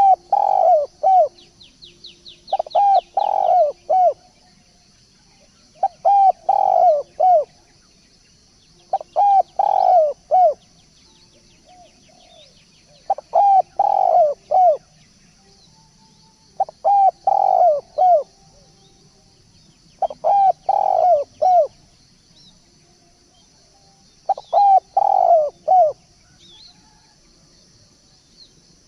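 A turtledove cooing: a phrase of several coos, repeated eight times about every three and a half seconds. A faint steady high hiss runs underneath, and a brief rapid series of high chirps from another bird comes about two seconds in.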